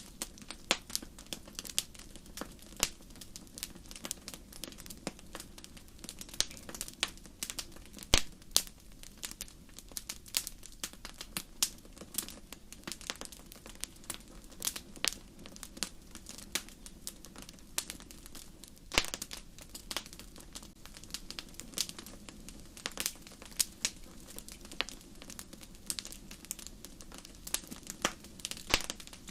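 Wood fire burning in a fireplace: a steady low rumble of flames under irregular sharp crackles and pops, several a second, with a louder snap about eight seconds in.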